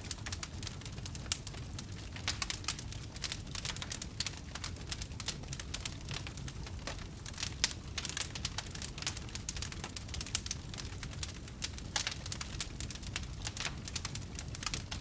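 Wood campfire crackling: many irregular pops and snaps over a steady low rumble.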